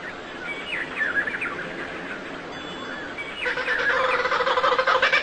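Birds singing, with short chirps and quick whistled slides. About three and a half seconds in, a louder, fast pulsing chatter starts and keeps building.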